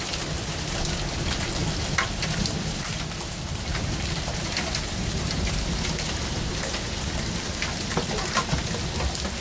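Steady rain falling during a thunderstorm, with many single drops ticking close by.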